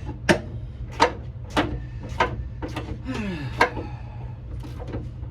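Sharp metal clicks from hand tools working bolt hardware under the car, about one every half to two-thirds of a second, with a short falling squeak partway through.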